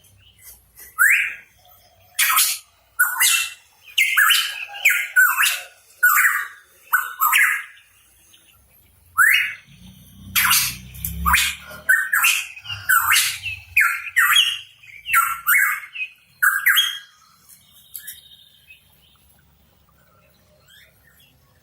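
Hooded pitohui calling in quick strings of short, harsh, upward-sweeping notes, in two bouts, falling silent for the last few seconds.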